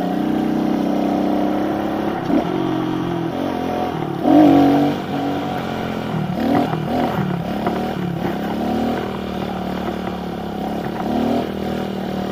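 Pit bike's small four-stroke single-cylinder engine running under way, its revs rising and falling as the throttle is worked, with the strongest rev-up about four seconds in.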